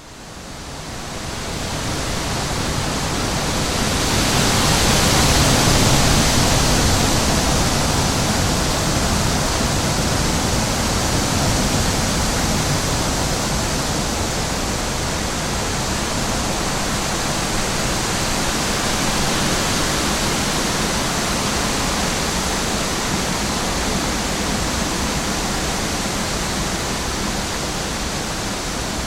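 Wind blowing steadily, an even rushing noise that fades in over the first couple of seconds and swells to its loudest about five seconds in.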